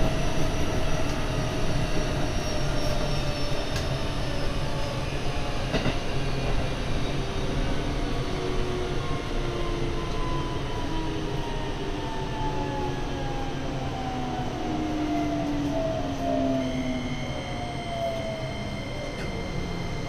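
Keikyu 1500 series commuter train running, heard from inside the car: rail and wheel rumble under the whine of the traction motors, whose tones slide steadily down in pitch through the middle of the stretch as the train slows. Near the end a few steady high tones join in.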